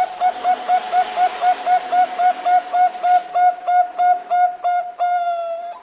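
Zebra dove (perkutut Bangkok) singing: a fast run of short clipped coos, about four a second, ending in one longer drawn-out note that sags slightly in pitch.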